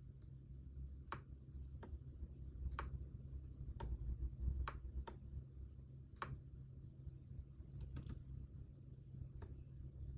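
Single sharp clicks at a study desk, typical of keys being pressed one at a time, coming unevenly about once a second with a quick double near the end, over a low steady room hum.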